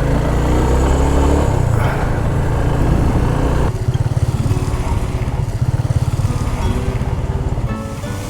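Motorcycle engine accelerating, its pitch rising over the first couple of seconds. A little under four seconds in the sound changes abruptly to a steady engine note with a fast pulsing beat.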